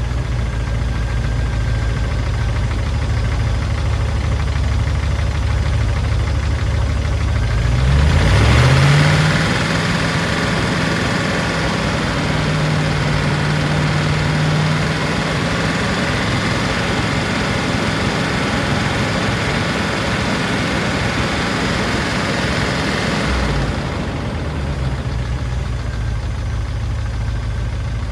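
Range Rover P38 V8 engine idling; about eight seconds in the revs rise and are held higher for some fifteen seconds, then drop back to idle. The owner says the engine has a sticking valve or lifter.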